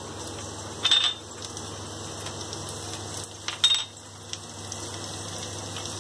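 Red chickpeas and onions sizzling steadily in hot mustard oil in a frying pan, with two short sharp clinks of a spoon, about a second in and again near four seconds, as spices are added.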